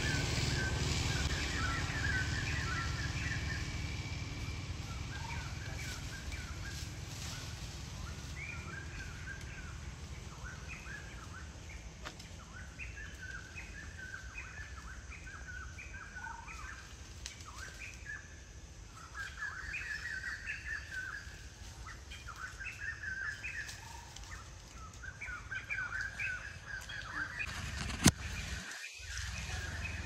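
Wild birds chirping: many short, repeated calls in clusters, over a steady low rumble. A single sharp click stands out about 28 seconds in, followed by a brief dropout.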